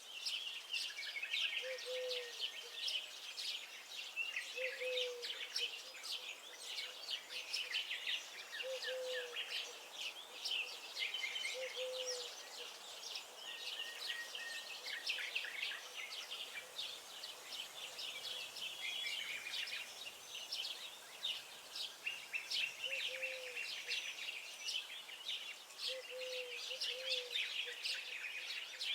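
Many small songbirds chirping and trilling together in a dense, overlapping chorus, with a short low call repeating every couple of seconds beneath it.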